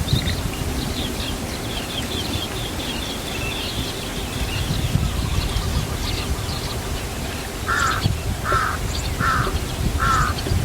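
Birds calling: a rapid high twittering in the first half, then a harsh call repeated about every three-quarters of a second from near the end, over a low rumble of wind.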